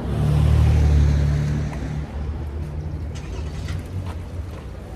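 A vehicle engine running close by: it swells loud right at the start, holds for about a second and a half, then drops back to a steadier, quieter run.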